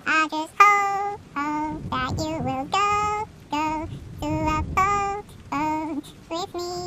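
A high voice singing a slow melody alone, without accompaniment: a string of held notes broken by short breaths.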